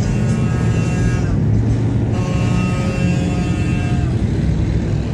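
Heavy trucks running in a caravan: a loud, steady low engine rumble. Two long steady chord-like tones sound over it, the first about a second long, the second about two seconds.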